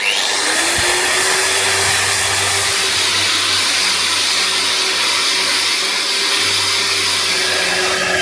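Electric power tool's motor switched on, spinning up within the first half-second and then running at a steady high speed with a whine.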